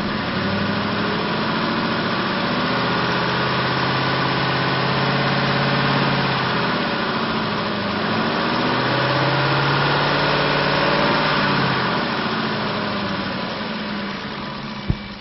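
2004 Ford F150's 5.4-litre V8 engine running, its revs slowly rising and falling twice. A single click comes near the end.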